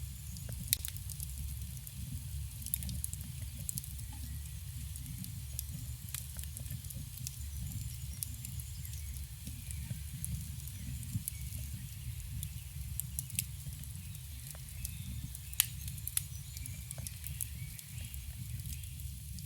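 Campfire crackling: scattered sharp pops and snaps from the burning wood, two of them much louder, over a steady low rumble.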